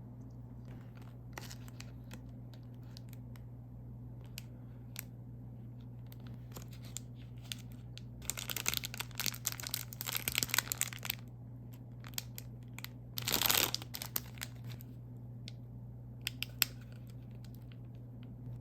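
Snack wrapper handled and torn open: scattered crinkles and clicks, a dense stretch of crackling about eight seconds in, then a short, louder tear a couple of seconds later, over a steady low hum.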